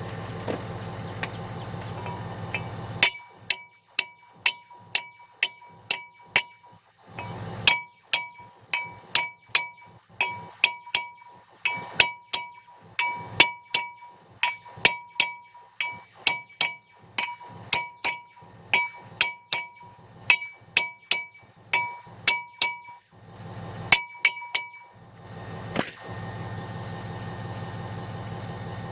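A hammer striking steel on a stuck brake fastener: sharp ringing metallic blows about two a second. They come in long runs with short pauses, starting about three seconds in and stopping near the end.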